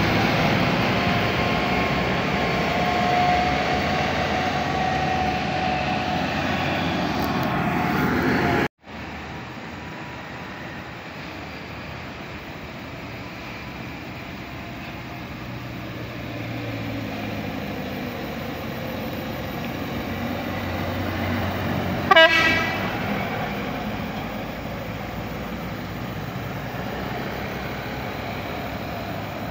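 Buses and trucks passing on a road, engine and tyre noise throughout, with a short horn blast about 22 seconds in. The sound cuts off abruptly about nine seconds in and comes back quieter.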